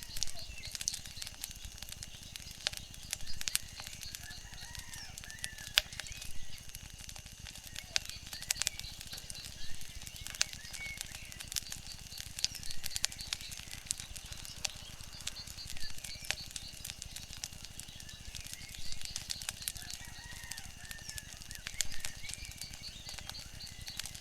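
Wood fire crackling, with frequent sharp pops over a low steady rumble, and a few short bird chirps now and then.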